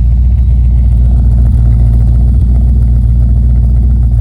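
Exhaust of a 1994 MG RV8's 3.9-litre Rover V8 at a steady idle, a low, even rumble.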